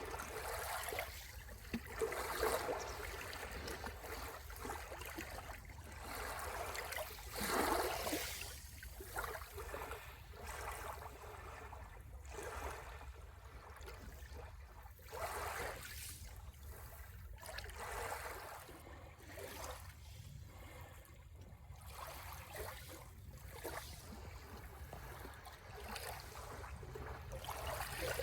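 Small sea waves washing and lapping on the shore in irregular hissing surges that rise and fall every few seconds, over a steady low rumble. The strongest surge comes about a third of the way in.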